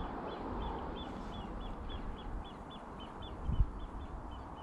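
A bird calling a steady run of short, high notes, about four a second, over a constant low rustle. A single low thump sounds about three and a half seconds in.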